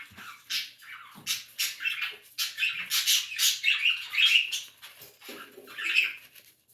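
Small birds chirping, a busy stream of short chirps several a second.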